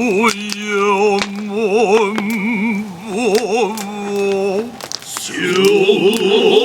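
Noh chorus (jiutai) of male voices chanting utai for the dance, low sung lines with a wide, slow wavering vibrato and long held notes, with scattered sharp clicks.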